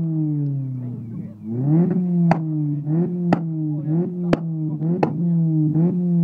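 Modified Toyota Yaris engine revved up in quick throttle blips and eased back, with sharp exhaust bangs about once a second from about two seconds in: backfires as the exhaust spits flames.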